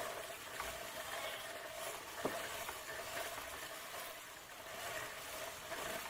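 A machine running with a steady hum over a hiss, and one sharp click a little past two seconds in.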